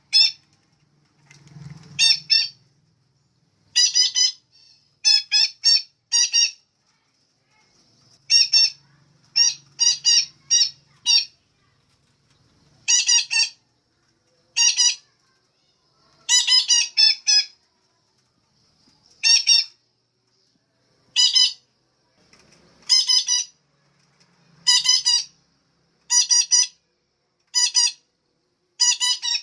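Female betet parakeet giving harsh, repeated squawks, some single and some in quick runs of two to four, every second or two.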